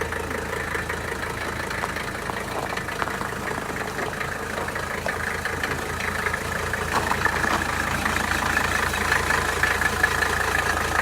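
Mercedes 300D five-cylinder diesel engine idling steadily while warming up after a cold start. It grows a little louder toward the end.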